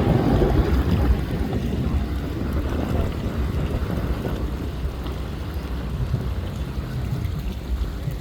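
Wind buffeting the microphone, a steady low rumble that eases off slightly after the first second or so.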